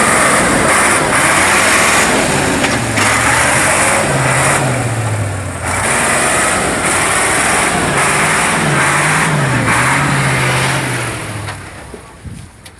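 Ural off-road truck engine revving hard under load, its pitch rising and falling, with a dense rushing noise over it; it falls away near the end.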